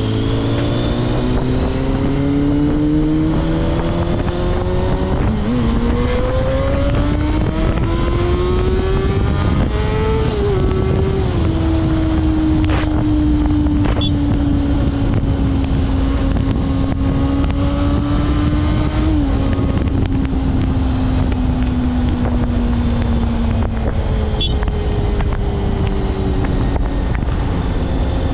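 Honda CBR250RR MC22's inline-four engine pulling up through the revs for about ten seconds with a brief dip partway, then easing off and winding slowly down. Steady wind rush underneath.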